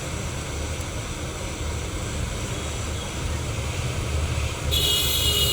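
Hot air rework station blowing steadily with a low rumble, as used to heat and lift a phone's CPU chip off the board. Near the end a louder hiss with a high whistling tone starts suddenly.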